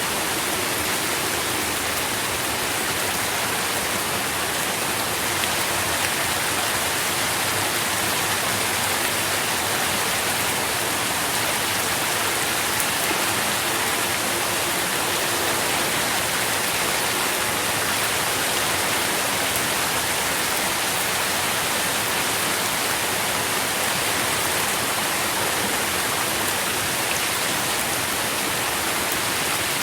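Steady rain falling, an even hiss of many drops with no pause or change.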